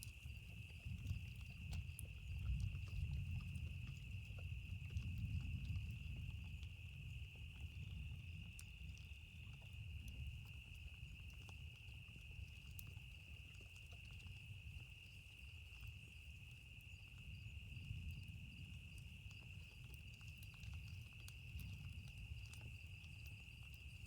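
Campfire crackling with scattered sharp pops, over a steady high-pitched insect chorus. A low rolling rumble of distant thunder swells and fades, loudest in the first few seconds.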